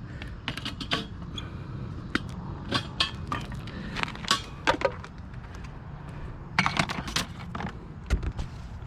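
Small hard objects being rummaged through and handled, giving irregular clinks and knocks throughout, over a steady low rumble.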